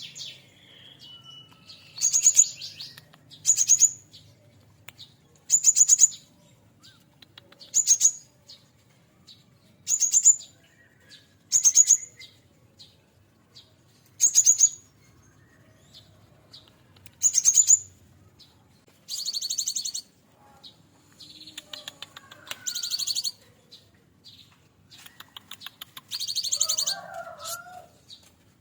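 Cinereous tit (gelatik batu) singing: short, rapid high-pitched trills repeated about every two seconds, giving way to longer, fuller phrases in the last third.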